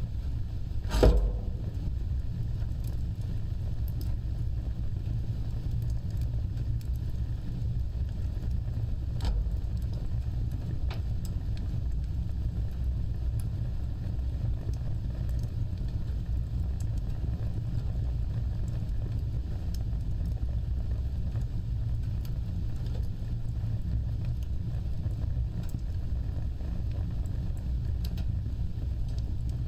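Fire burning with a steady low rumble of flames and occasional crackles, one loud sharp pop about a second in and fainter scattered pops after.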